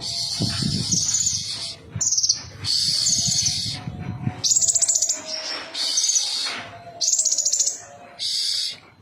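Kolibri ninja, a small sunbird, singing: a run of about seven short, high, rapidly trilled phrases with brief gaps between them, over a low rumble during the first half.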